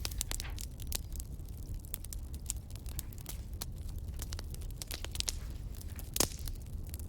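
Wood fire crackling: irregular sharp pops and snaps over a steady low rumble, with one louder pop near the end.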